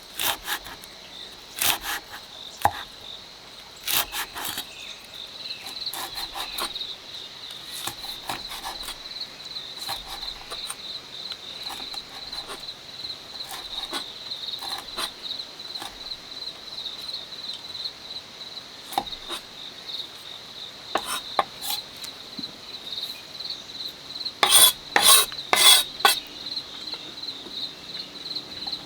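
Insects chirring steadily in a high, pulsing tone, with scattered sharp clicks and knocks of handling work over it and a quick run of louder clicks near the end.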